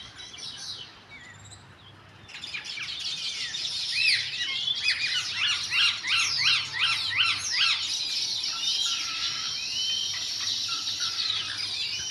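Small birds chirping rapidly: many short, high calls overlapping. The chirping is sparse at first and becomes busy and continuous about two seconds in.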